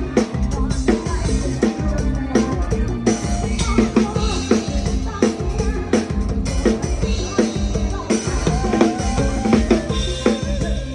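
PDP drum kit played live in a band's concert groove, with steady bass drum and snare hits and rimshots over the rest of the band's instruments.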